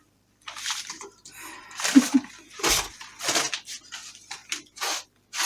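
Sweeping debris into a pile on the floor: a series of short, irregular scratchy brush strokes, with one heavier thump about halfway through.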